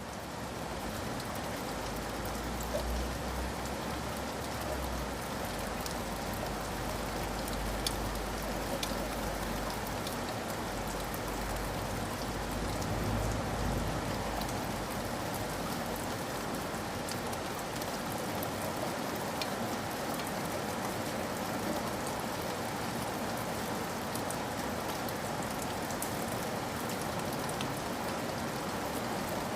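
Steady rain falling, with scattered sharp drops ticking on hard surfaces and a low rumble underneath during the first half.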